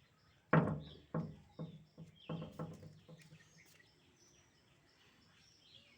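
A quick series of about six sharp knocks, each fading fast with a low ring, in the first three seconds. Small birds chirp faintly in the background throughout.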